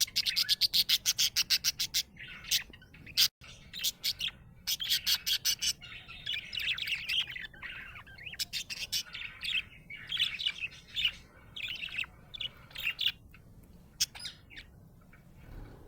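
Budgerigar chirping and warbling: a fast run of sharp, rapid chirps at the start, then a busy stream of varied chirps that thins out near the end.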